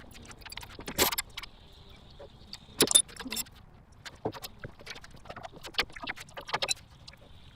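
Irregular metallic clinks and clatters of hand tools and engine parts being handled during engine removal, sped up by the time-lapse. The loudest clanks come about one second in and about three seconds in.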